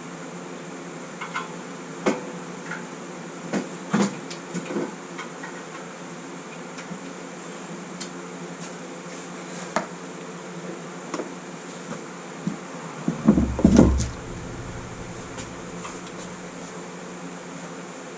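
Scattered metal clanks and knocks as a Briggs & Stratton Vanguard 22 engine is worked free and lifted off a mower frame, then a heavy thudding cluster about two-thirds through as the engine is set down. A steady fan hum runs underneath.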